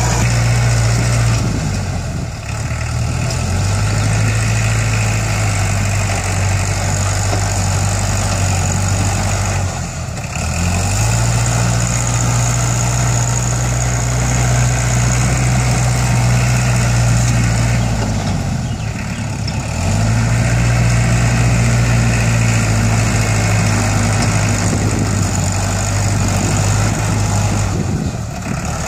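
Iseki NT554 tractor's diesel engine running, its pitch sagging briefly and picking back up four times.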